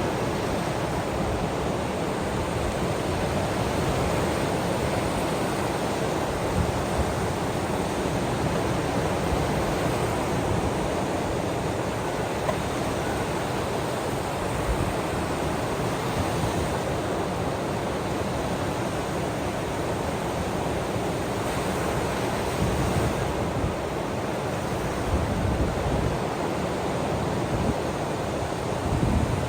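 Ocean surf washing steadily, an even rushing noise with no distinct breaks between waves.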